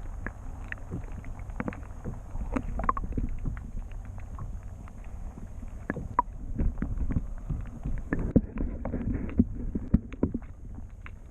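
Wind rumbling on the microphone on a kayak, with irregular small knocks and splashes as water slaps against the hull.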